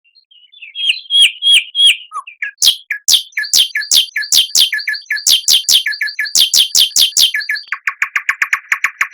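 Songbird singing: a short run of four hooked whistles, then a long string of sharp descending notes, each followed by a lower chip, about three a second. It ends in a fast, rapid trill near the end.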